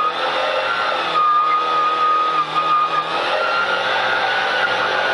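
Rally car engine running hard in fourth gear, heard from inside the cabin over road noise. The pitch holds steady, then climbs slowly over the last couple of seconds as the car accelerates.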